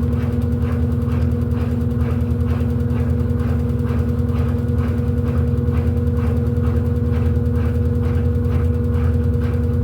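Electrolux 14 kg LED14 washing machine running: a steady motor hum over a low rumble, with a rhythmic swish about twice a second.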